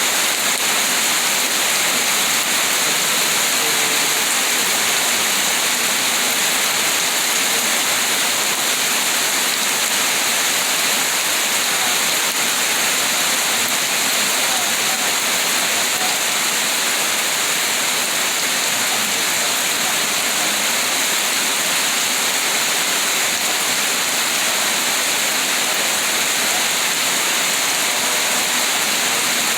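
Steady rain falling, a dense even hiss that holds at the same level throughout.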